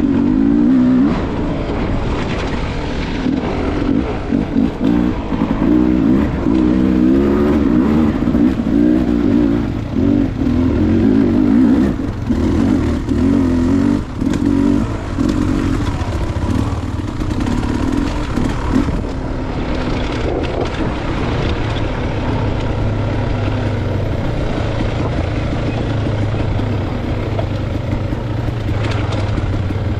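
Dirt-bike engine working along a trail, its pitch rising and falling as the throttle opens and closes. About two-thirds of the way through it settles into a steadier, lower-pitched running.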